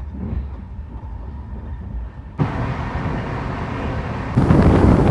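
Passenger train running on the rails with a steady low rumble. It cuts abruptly to a louder rattling, rushing run about halfway through, which gets louder again near the end.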